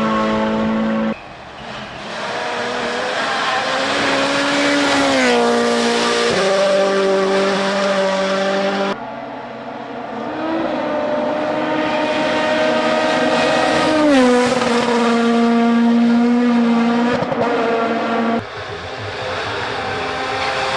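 WRC Rally1 rally cars flat out, their engine notes climbing and then dropping sharply in pitch. Several shots are cut together, so the sound changes abruptly about a second in, around nine seconds, and again near eighteen seconds.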